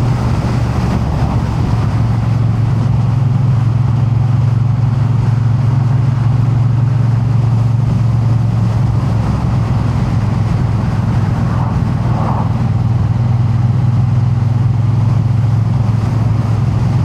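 Triumph Bonneville T100's parallel-twin engine running at a steady cruise, its drone holding one even pitch with no revving.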